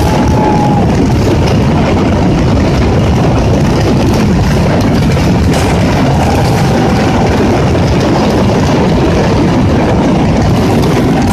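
Valencian mascletà: a dense barrage of firecracker reports so close together that they merge into a continuous loud rumble, with a few faint whistles over it.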